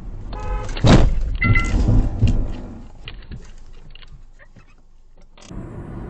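Vehicle collision: a brief pitched tone, then a loud crash about a second in, with further crunching hits and scattered clinks of debris that fade away.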